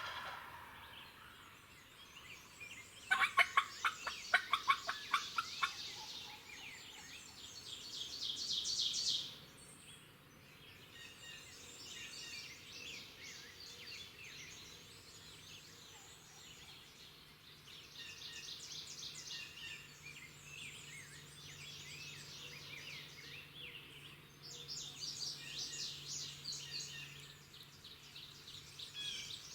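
Wild turkey gobbling, loudest as a fast rattling gobble about three seconds in, with songbirds chirping and singing around it throughout.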